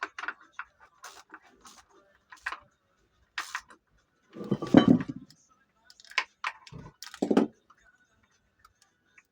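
Irregular clicks and knocks of metal tools and parts being handled, with one longer, louder clatter about halfway through.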